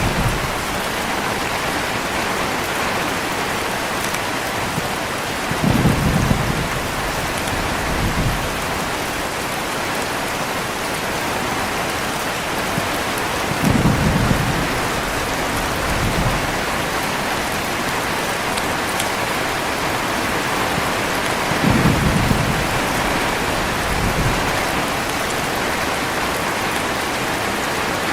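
Heavy rain falling steadily, with low rumbles of thunder three times, about every eight seconds, each followed by a fainter rumble about two seconds later.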